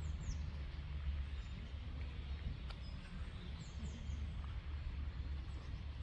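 Small birds giving short, thin, high calls that fall in pitch, in little clusters of two or three: at the start, about three and a half seconds in, and again at the end. Behind them runs a steady low rumble and hiss.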